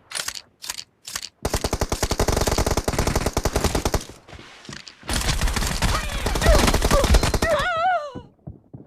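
Video-game automatic gunfire in two long rapid bursts, with a short wavering tone near the end.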